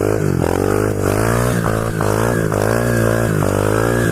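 Pit bike's small single-cylinder engine held at high revs, its pitch wavering up and down as it spins donuts, with the rear tyre scrubbing across the pavement.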